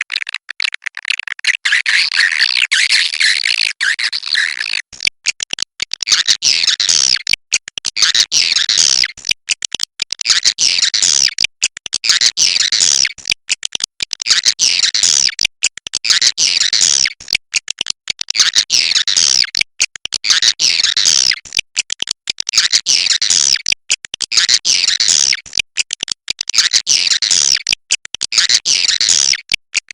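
Swiftlets twittering in a dense, continuous chatter of rapid high chirps, broken into phrases by short abrupt gaps: the roosting ('inap') call played in swiftlet houses to draw the birds in to stay.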